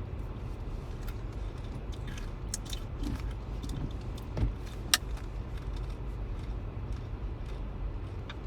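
Steady low road and engine rumble heard inside a moving car's cabin, with a few small clicks and rattles, the sharpest about five seconds in.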